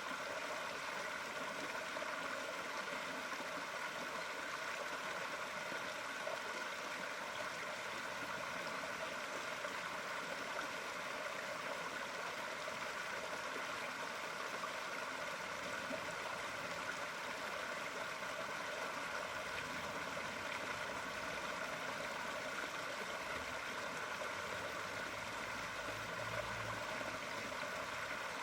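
Steady, unbroken sound of running water, played as a loop.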